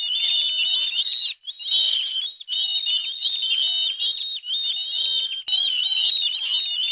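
Many birds chirping at once in a dense, unbroken chorus of high, wavering calls, with a couple of brief, abrupt breaks.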